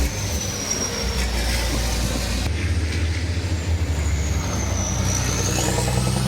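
Racing truck engines running, a steady low rumble with a high whine that dips and then rises; the sound changes abruptly about two and a half seconds in.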